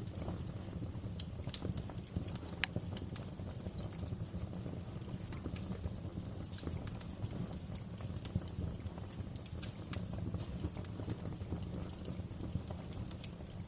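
Wood fire crackling in a fireplace: a steady low rumble of flames under many small, irregular pops and snaps.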